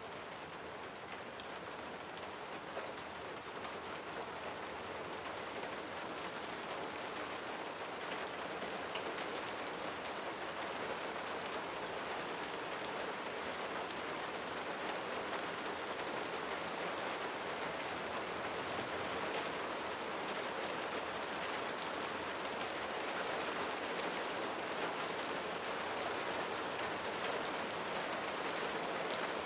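Steady rain falling, a dense hiss dotted with individual drops ticking, slowly growing a little louder.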